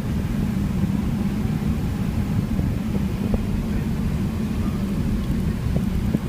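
Steady low rumble of a Boeing 777-300ER's GE90 engines and airflow, heard inside the passenger cabin.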